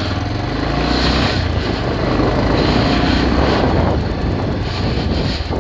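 Bajaj Pulsar 220F's single-cylinder engine running steadily while riding, with wind rushing over the microphone.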